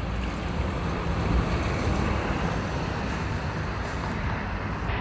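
Wind buffeting the microphone, a steady rumbling noise with no clear event in it.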